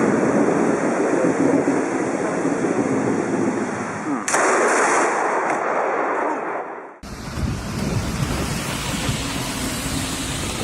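Steady storm hiss of rain and wind, then about four seconds in a sudden sharp crack of close lightning thunder that carries on for a couple of seconds before breaking off abruptly into another stretch of rain-and-wind noise.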